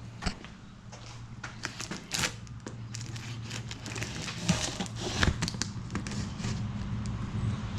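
Cardboard shipping box and packaging being cut and opened: a string of irregular sharp clicks, snaps and crinkles. A steady noise, typical of passing road traffic, grows louder near the end.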